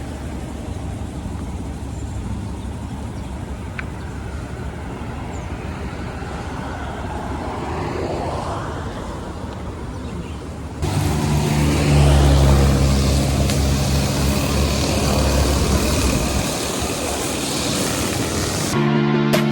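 Motor vehicle engine rumble: low and steady at first, then suddenly louder and closer about eleven seconds in, with a steady low engine note.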